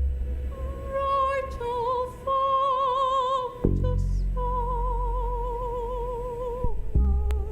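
A woman's voice singing long held notes with wide vibrato, wordless and operatic in style, over a low electronic drone. The drone swells about halfway through, and a new sung note begins near the end.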